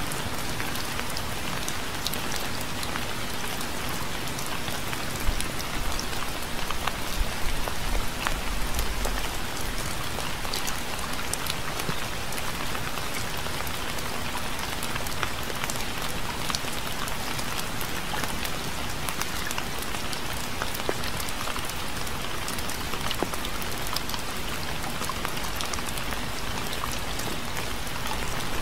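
Steady rain falling on a surface, with many close, sharp drop hits over an even patter. About six to nine seconds in, a brief low rumble and a few louder hits come through.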